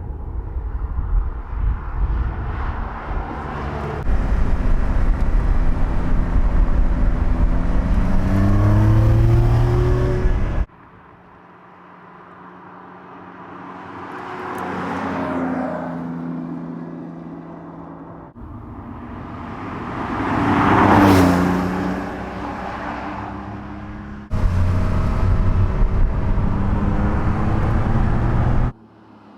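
Porsche 911 Carrera T's twin-turbo flat-six in a string of short cuts. First comes about ten seconds of hard acceleration with revs climbing. The car then drives past twice, the second pass louder, about two thirds in. A last burst of acceleration cuts off abruptly near the end.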